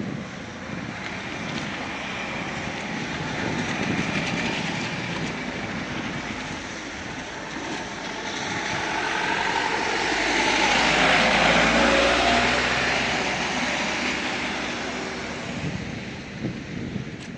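A vehicle passes by. Its noisy hiss and low hum swell to a peak about eleven seconds in and then fade away.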